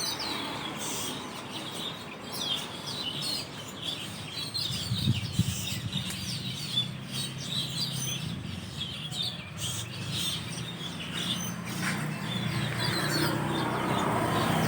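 A flock of Asian glossy starlings calling from a roost tree: many short, high chirps overlapping in a constant chatter. A low rumble builds underneath toward the end.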